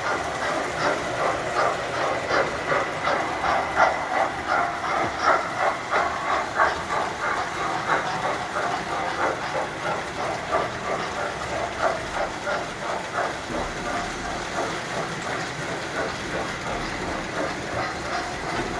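Tinplate toy trains running on their track: a continuous patter of wheel clicks over a steady high-pitched whine.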